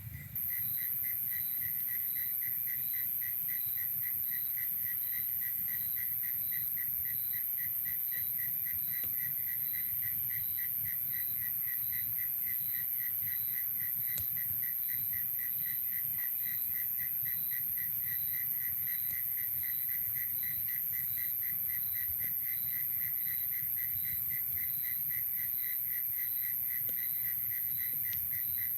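Night insect chorus: a steady, very high-pitched drone, with another caller pulsing evenly a few times a second. It starts abruptly just after the opening and does not change.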